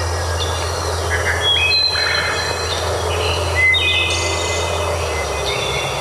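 Birdsong: repeated phrases of clear whistled notes that step up and down in pitch, coming about every two seconds over a steady background hiss. A low steady hum stops about five seconds in.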